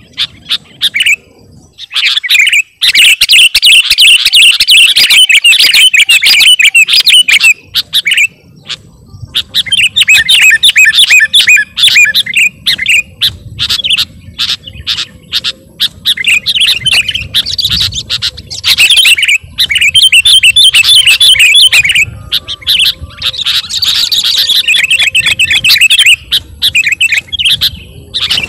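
Sooty-headed bulbul singing energetically in loud, rapid chattering phrases of a few seconds each, separated by short pauses.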